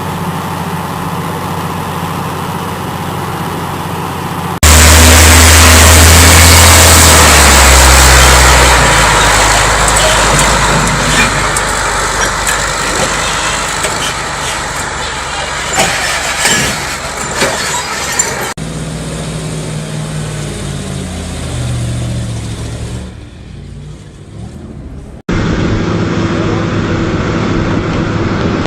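Heavy vehicle engines running across several spliced clips, with a loud stretch of deep engine noise about five seconds in and scattered knocks and clanks in the middle.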